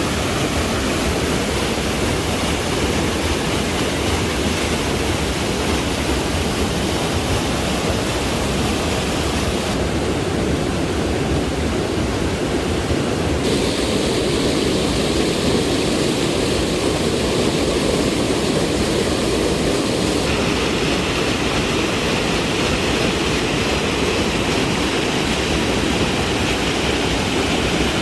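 Steady rushing noise with no distinct events, its tone changing abruptly about ten, thirteen and twenty seconds in.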